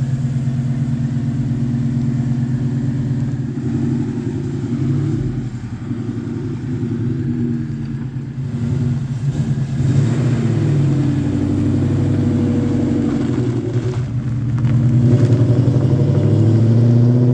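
Coyote 5.0 V8 in a Fox-body Mustang running under way, its engine note rising and falling with the throttle, easing off for a few seconds a few seconds in and pulling harder again towards the end.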